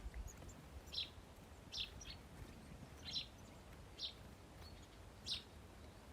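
Small birds chirping: short, high chirps about once a second, over a faint low rumble.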